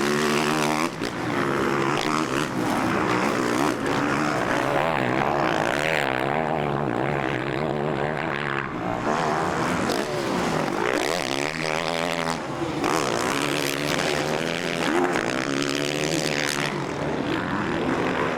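Several motocross bike engines revving hard, their pitch repeatedly rising and falling as the bikes race, shift and pass.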